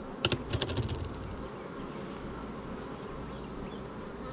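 Honeybees buzzing steadily around an opened hive, with a quick run of sharp clicks and knocks in the first second.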